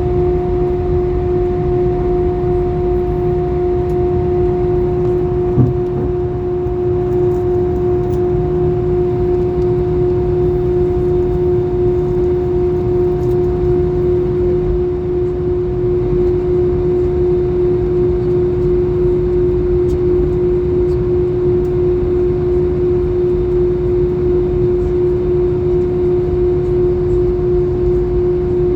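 Airbus A320 cabin noise with the engines running at idle: a steady hum holding one constant tone over a low rumble, with a single brief knock about six seconds in.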